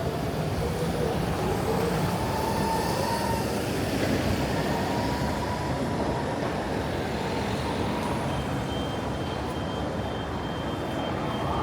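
Steady city street traffic noise, with faint steady whines from passing vehicles.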